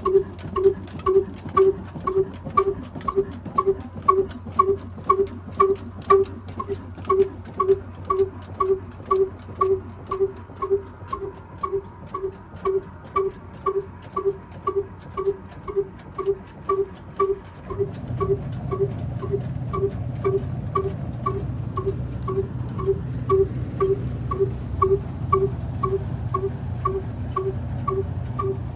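Old black diesel engine running slowly and evenly, about two and a half exhaust beats a second, each beat with a ringing, chime-like tone. A steadier low drone joins a little over halfway through.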